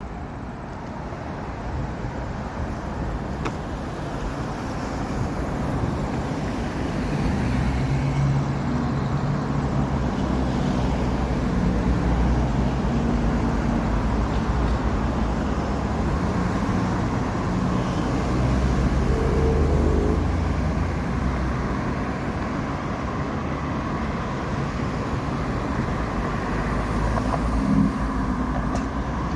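Steady road traffic: a continuous low rumble of passing cars.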